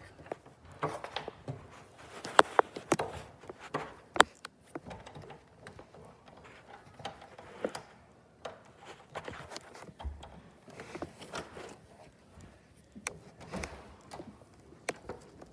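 Scattered clicks and knocks of a brass doorknob and latch being worked and a door being opened, mixed with rustling as the camera and plush puppet are handled.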